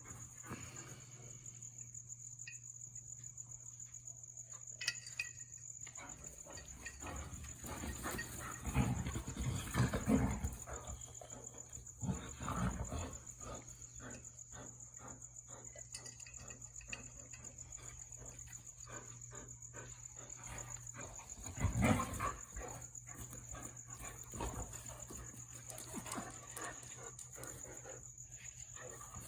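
Dogs playing roughly: scuffling and pawing with scattered clicks, and a few louder low rumbling bouts about nine seconds in, at about twelve seconds and again at about twenty-two seconds. A steady high-pitched trill runs underneath.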